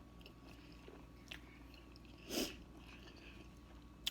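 Close-miked chewing and biting of food, soft mouth noises with a faint click about a second in and one louder, brief smacking crunch a little past halfway.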